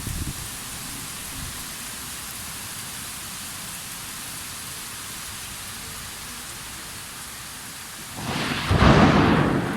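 Steady summer rain falling, then about eight seconds in a sudden loud clap of thunder that rumbles on and is still fading at the end.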